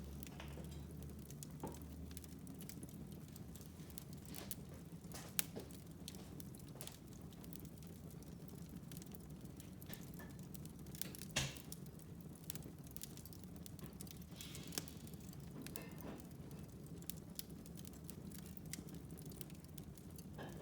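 Wood fire crackling in a fireplace: scattered sharp pops and snaps over a low steady hum, with two louder pops about five and eleven seconds in.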